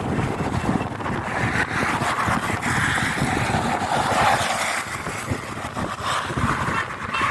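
Wind buffeting the microphone in low, uneven gusts on a wet, windy night. A rushing hiss swells over the middle few seconds and then eases.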